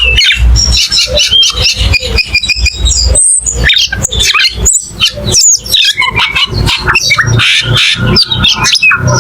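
Cucak keling singing a loud, continuous song of rapid, varied whistles, chirps and harsh notes, with a low thudding underneath.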